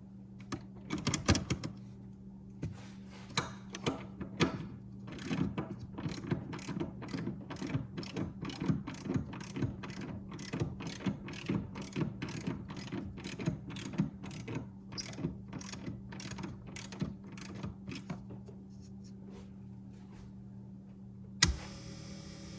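Hand ratchet wrench clicking in quick, even strokes, about two to three clicks a second, as a bolt is turned, over a steady low hum. A single sharp click comes near the end.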